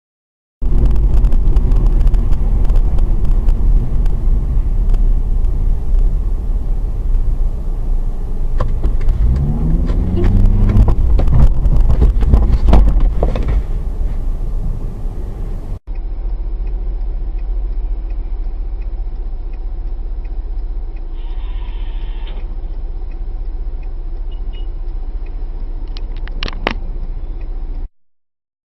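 Car dashcam audio of moving cars: a steady, loud low rumble of engine and road, with scattered clicks and a rising engine pitch about ten seconds in. It cuts abruptly to a second, duller recording of the same kind of rumble, which has a few sharp knocks shortly before it stops.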